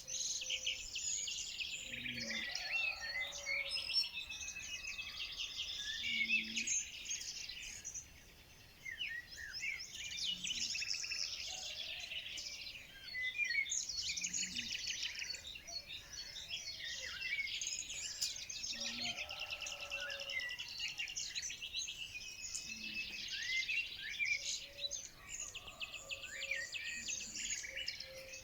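A dense chorus of many small birds chirping and trilling over one another, with a short lull about eight seconds in.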